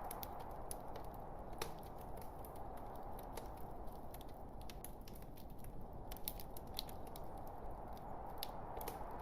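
Log fire crackling: many irregular sharp pops and snaps over a steady low rush of the burning logs.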